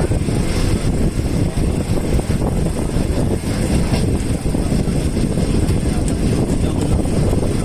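Train in motion: a steady, loud rumble of wheels on rail mixed with wind noise, heard from inside a non-air-conditioned passenger carriage.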